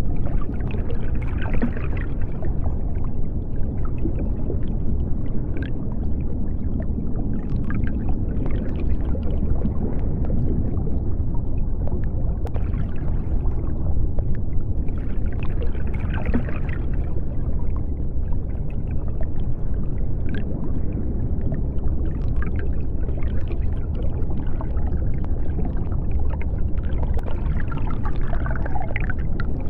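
Underwater sea ambience: a steady deep rumble, with patches of faint crackling every few seconds.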